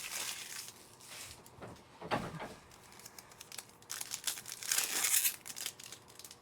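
Trading card pack wrappers being torn open and crinkled by hand, a stubborn pack that is hard to open. The rustling comes in uneven bursts, loudest about five seconds in.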